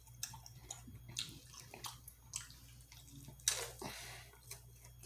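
Close-up mouth sounds of eating: wet chewing and lip-smacking in short scattered clicks, with one louder brief rushing noise about three and a half seconds in.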